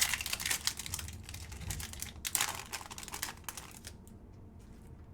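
Trading cards being flipped through by hand: rapid crisp clicks and rustling that die away about four seconds in.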